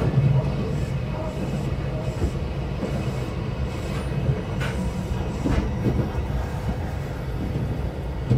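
Running noise of a local electric train heard from inside the passenger cabin: a steady low rumble with a faint even hum and a few scattered clicks from the wheels on the rails, as the train nears a station stop.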